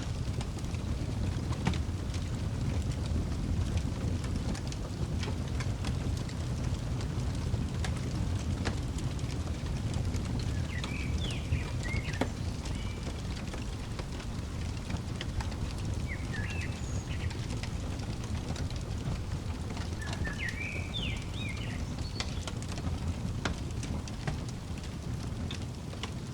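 Wood fire crackling, with scattered sharp pops over a low steady rumble. A songbird chirps in short runs of notes three times, about halfway through and again near the two-thirds mark.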